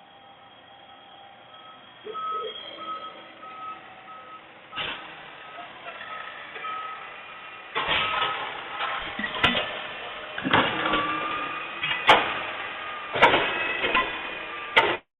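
Garbage truck's reversing alarm beeping at about two beeps a second, followed from about halfway through by a run of loud knocks and bangs over the truck's running noise. The sound cuts off suddenly near the end.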